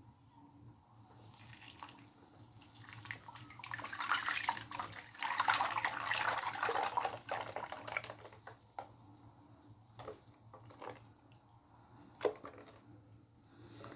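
A liquid milk, egg and sugar mixture being poured into a bowl, the pour building up about three seconds in and tailing off around the middle, with a few light clicks.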